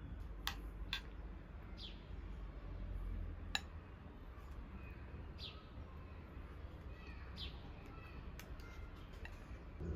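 A bird chirping now and then, short falling notes every couple of seconds, over a steady low hum. A few sharp clicks or taps come through, the loudest about midway.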